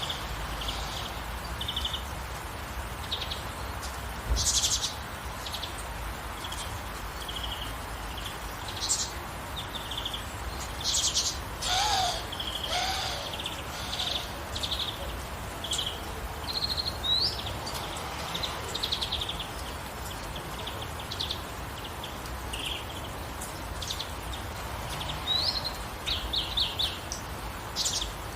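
Several birds chirping and singing in short calls and trills, one after another, over a steady soft hiss of gentle rain.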